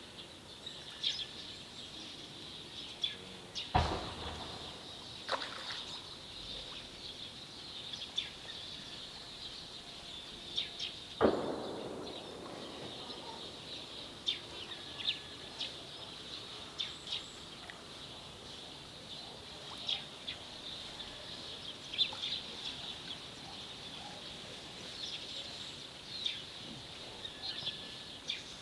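Small birds chirping steadily in many short high calls. Two sharp knocks ring out, about four seconds in and again about eleven seconds in, with a fainter one in between.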